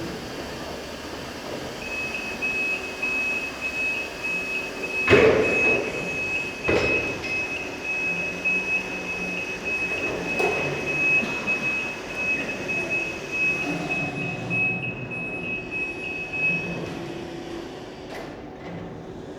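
Electric reach truck working, with a steady high warning tone sounding for about fifteen seconds over its running noise. Two loud clunks come about five and seven seconds in.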